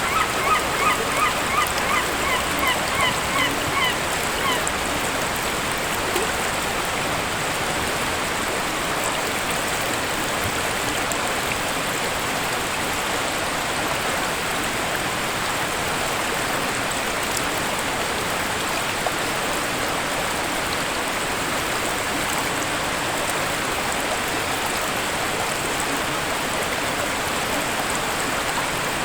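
A waterfall rushes steadily throughout. In the first four seconds or so, a bird gives a quick series of about a dozen short, honking calls, around three a second, which fade away.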